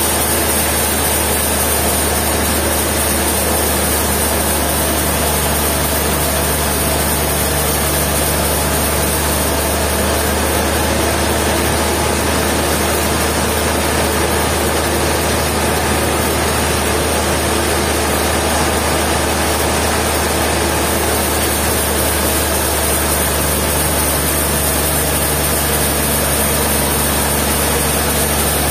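Sawmill machinery running: a steady, unbroken engine hum that neither rises nor falls.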